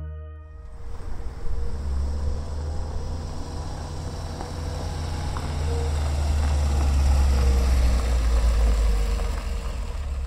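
Car engine running as the car drives up and slows to a stop; the low hum grows louder through the middle and eases near the end.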